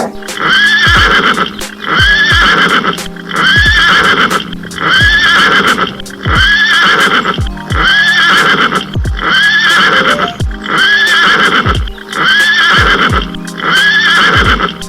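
Music built on a looped horse whinny: the same neigh repeats about every one and a half seconds over a steady low beat.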